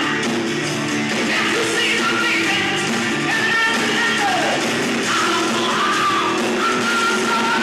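Live rock band playing with a loud, strained lead vocal, close to yelling, over electric guitars and drums.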